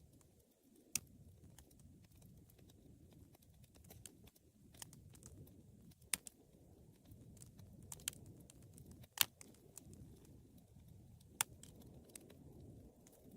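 Wood fire crackling: scattered sharp pops and snaps from the burning wood over a low, steady rumble of the flames, with the loudest pop a little past the middle.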